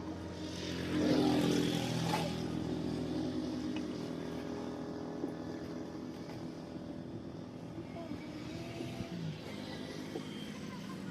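An engine running steadily, its hum swelling loudest about one to two seconds in, as if a vehicle passes close by.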